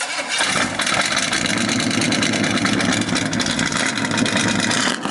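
Loud Chevy 350 V8 in a 1970 Buick Skylark starting up abruptly and settling into a rough, choppy idle through a loud exhaust, not revved; it sounds pretty mean.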